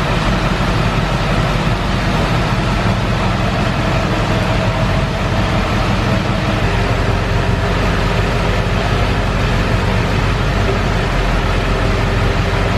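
A large pickup truck's engine running steadily at idle, a low, even drone whose tone shifts slightly about halfway through.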